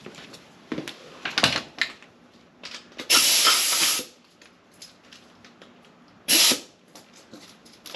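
Two bursts of hissing. The first lasts about a second, starting about three seconds in, and a shorter one comes about six seconds in, among light clicks and knocks of handling tools.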